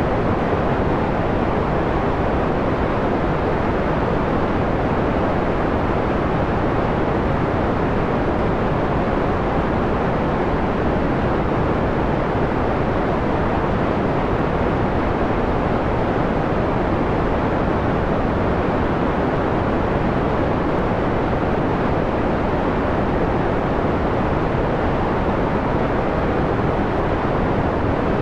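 Steady synthetic white noise with its highs rolled off to a mellow, dull rush, unbroken and even throughout.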